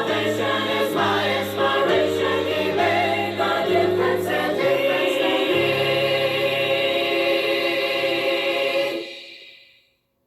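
A choir singing a gospel song, closing on a long held final chord that fades out quickly about nine seconds in.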